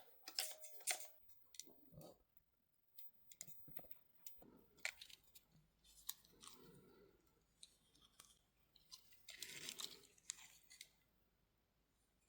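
Faint scattered clicks, taps and short rustles over near silence, bunched more densely about nine seconds in.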